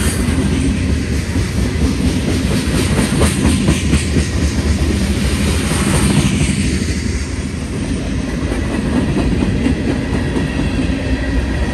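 Freight train cars (gondolas, then tank cars) rolling past close by: a steady rumble of steel wheels on rail, with repeated clacks as the wheels cross rail joints.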